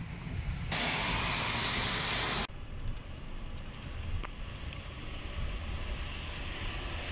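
Heavy rain pouring onto standing water, a loud even hiss that cuts off abruptly after about two seconds. Then a steady low rumble of wind on the microphone, with a few faint ticks.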